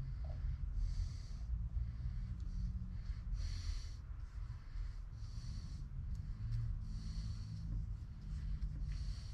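A person breathing close to the microphone, short hissy breaths about every one and a half to two seconds, over a steady low hum.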